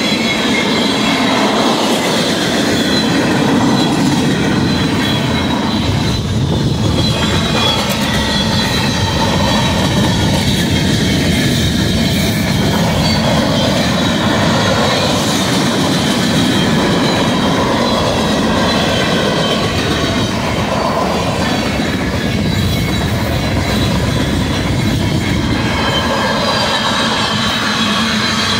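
A manifest freight train's cars rolling past: a steady rumble and clatter of steel wheels on the rails, with a thin, high-pitched wheel squeal over it.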